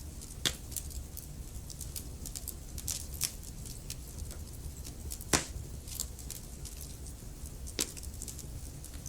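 Wood fire crackling in a fireplace: scattered sharp pops and snaps over a low, steady rumble of the flames. The loudest pop comes a little past halfway.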